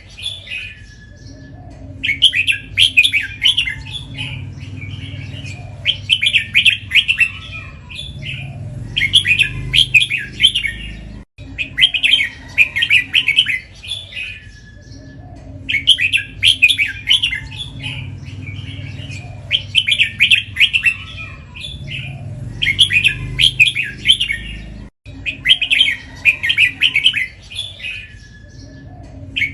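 Red-whiskered bulbul singing: short, bright whistled phrases repeated every second or two with brief pauses between runs. The phrases are doubled (เบิ้ล), the repeated phrasing valued in bulbul song contests.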